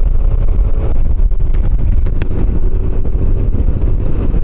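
Motorcycle riding along at a steady pace: the engine's steady running under a heavy low rumble of wind and road noise on the microphone.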